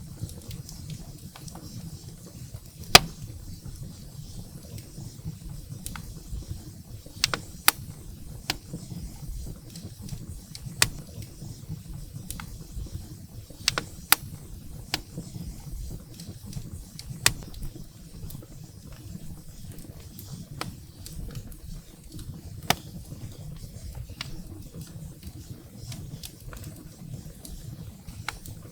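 Wood fire burning in a fireplace: a low steady rumble of the flames with irregular sharp crackles and pops of burning firewood, the loudest pop about three seconds in.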